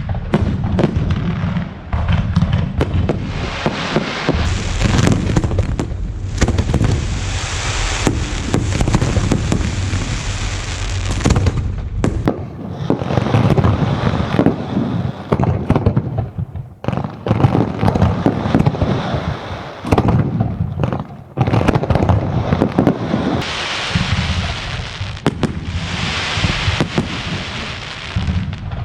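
Fireworks display in a dense, continuous barrage of bangs and low booms. Twice, early and again near the end, long stretches of loud crackling hiss ride over the bangs.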